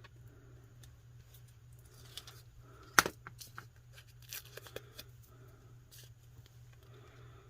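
Paper scraps being handled and shuffled on a desk: soft rustling and crinkling, with one sharp tap about three seconds in and a few lighter clicks a second or so later.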